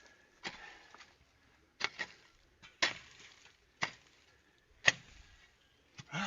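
Hand digging tool chopping into the ground in repeated strokes, about one a second, one of them a quick double strike.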